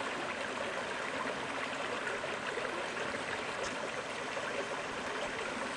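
Creek water running over rocks, a steady rushing babble.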